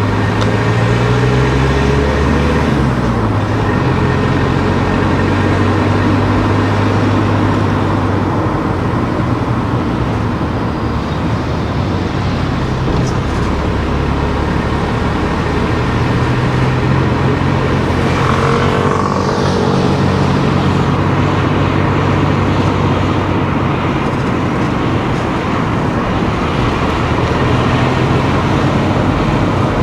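Car driving on town streets: steady engine and tyre-on-road noise, with a low hum that shifts in pitch a few times as the speed changes. About two-thirds of the way through, a brief falling sweep passes over it.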